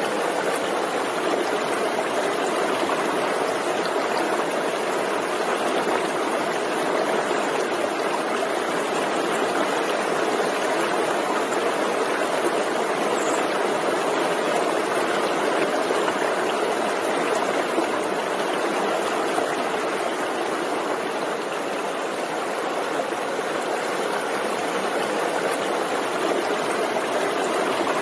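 Forest stream running over rocks, a steady rush of water.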